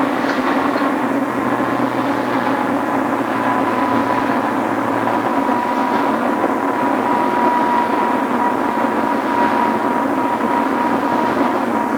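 Tokyu 2000 series electric train running at steady speed, heard from inside the car: even rumble of wheels on the rails with a steady high whine over it.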